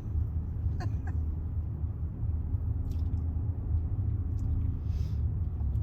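Range Rover cabin noise while driving: a steady low engine and road rumble, with a faint steady hum from about a second in until near the five-second mark.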